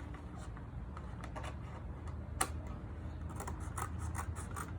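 Scissors cutting through a milk carton: an irregular run of short snips and scraping rubs, with one sharper snip about two and a half seconds in.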